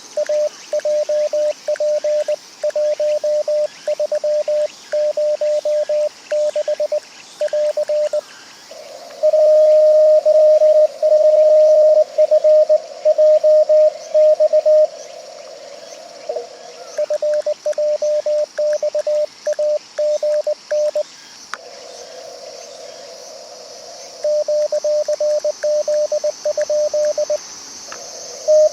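Morse code (CW) from an amateur radio transceiver: a single beeping tone keyed on and off in dots and dashes at a fast sending speed. A second, slightly lower-pitched signal is heard for a few seconds past the middle, over a steady hiss.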